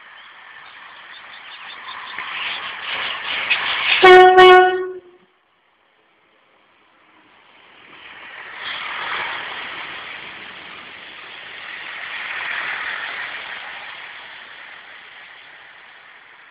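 Class 165 diesel multiple unit approaching a platform: rising engine and wheel noise, then one loud horn blast of about a second, four seconds in. The sound then cuts out completely for about two seconds. After that the train's coaches run past close by, the noise swelling and fading twice.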